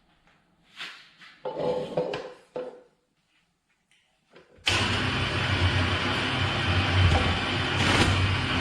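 A few knocks and clatters, then about halfway through an electric juice extractor's motor switches on and runs steadily with a low hum and a whir.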